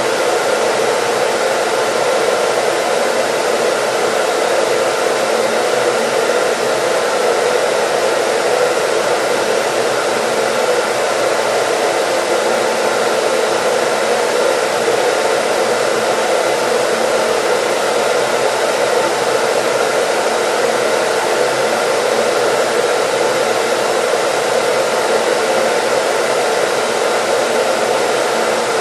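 Hair dryer running continuously, a steady even rush of blown air with a faint constant motor tone, used as white noise.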